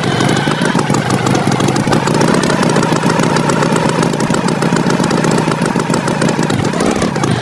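Tractor engine running steadily, a cartoon engine sound effect, its pitch swelling up and back down briefly near the end.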